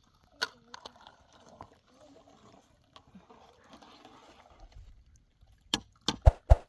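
A few light clicks and a soft scraping rustle, then about five sharp, loud knocks in quick succession near the end.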